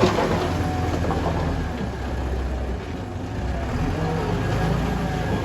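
Heavy diesel earthmoving machinery running steadily with a low drone, with a sharp knock right at the start.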